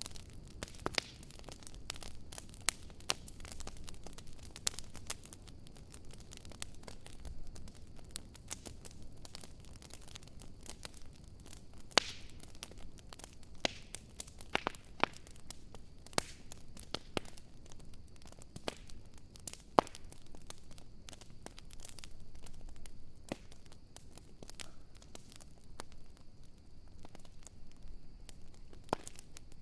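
Wood fire crackling, with a low hiss and irregular sharp pops, a few of them much louder than the rest.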